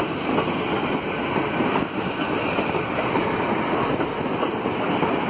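GWR Class 800 Hitachi bi-mode train moving past the platform, a steady rumble of wheels on rail and its underfloor diesel engines, with no overhead wires here to run on.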